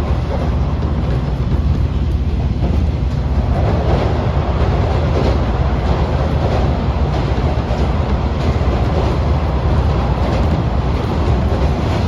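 KiHa 40-series diesel railcar running, heard from on board: a steady engine and wheel rumble, with the wheels clicking over rail joints.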